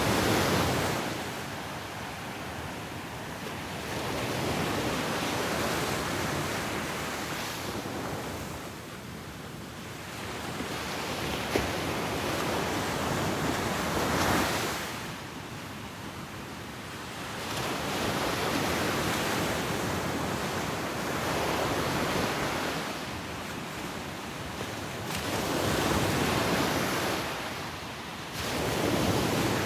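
Ocean surf breaking and washing up a beach, the rush of the waves swelling and easing every few seconds.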